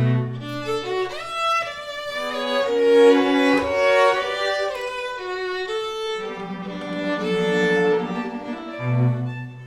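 Violin and cello playing a slow passage of long, held notes, several lines at once.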